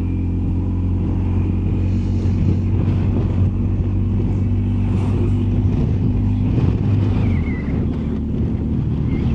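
BMW R1250GS Adventure's boxer twin engine running at a steady cruise, with wind and road noise, its note dropping a little about seven and a half seconds in.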